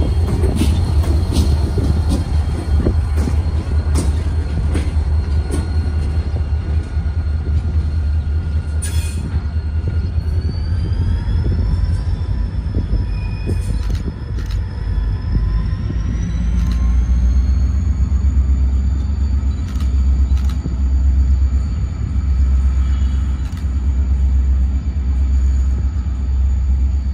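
CSX diesel freight train pulling away: a heavy low engine rumble with clicks from the wheels over the rails in the first half. A high whine rises in pitch twice and then holds steady.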